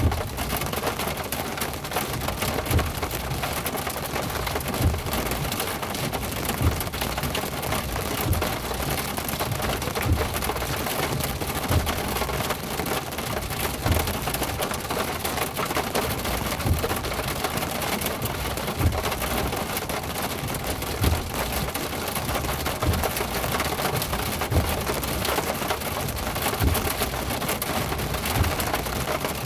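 Heavy rain hitting a car, a dense, steady patter, with a soft low thump repeating about every two seconds.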